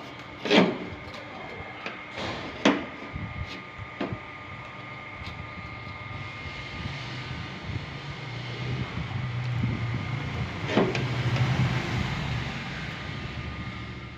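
Several sharp taps in the first four seconds, typical of paintless dent repair tools on a car's body panel. They are followed by a low hum that grows louder over several seconds and then cuts off abruptly.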